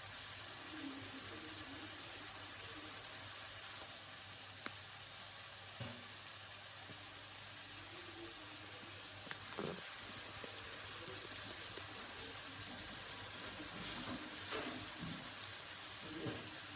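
Swordfish steaks frying in olive oil in a pan: a steady sizzle with a few scattered pops.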